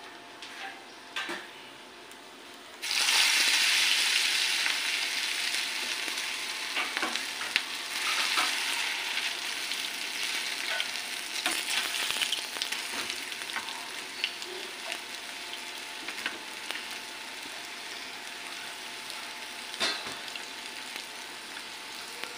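Potato chapli kabab patty frying in shallow hot oil on a flat pan: a sudden loud sizzle about three seconds in, as it goes into the oil, that slowly settles into steady frying. A few sharp clicks and pops sound through it.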